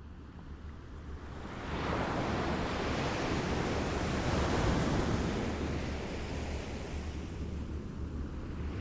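Waves lapping on a shore: the wash of water swells up about two seconds in, is loudest around the middle, then eases off a little, over a steady low rumble.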